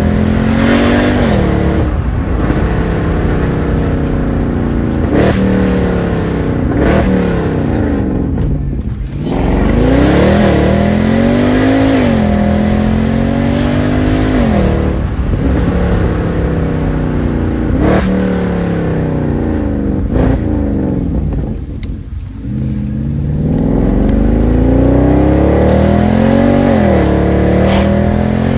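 Mercedes-Benz C63 AMG W204's 6.2-litre V8 accelerating through the gears, its note climbing and dropping sharply at each shift again and again, with two brief lifts off the throttle.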